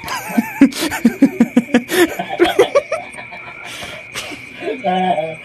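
Laughter in quick repeated bursts for about three seconds, then a short voiced sound near the end.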